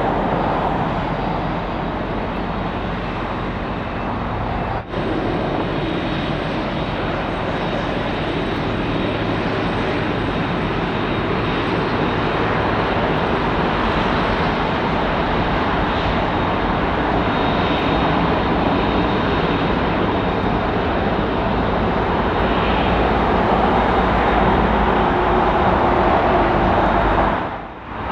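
Jet engines of a Boeing 767-300 freighter running steadily, a continuous rushing jet noise with a faint high whine. The sound drops out for an instant about five seconds in and dips briefly near the end.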